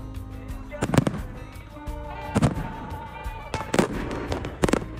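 Aerial fireworks shells bursting, a series of sharp bangs roughly a second apart, over music.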